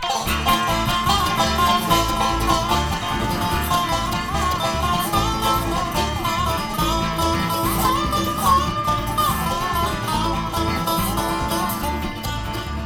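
Live bluegrass band starting a song with an instrumental intro: plucked strings carry the melody over a steady, pulsing bass beat. The music comes in abruptly at full volume.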